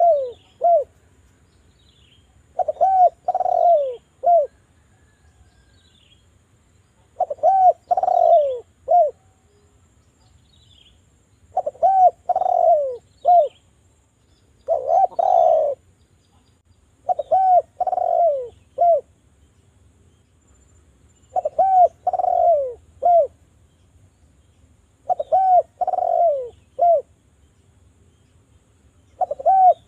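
Derkuku dove cooing in repeated phrases, about seven in the stretch, each a few low falling coos ending in a short separate note, with pauses of a second or two between phrases.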